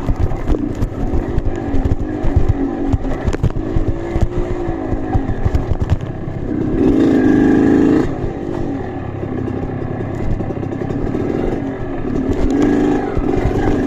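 Dirt bike engine labouring on an off-road trail, its pitch rising and falling with the throttle, held at high revs for about a second and a half midway, amid clattering knocks.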